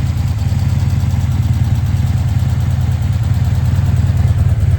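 A 1984 Honda V65 Magna's 1100 cc V4 engine idling steadily, with an even low rumble and no revving.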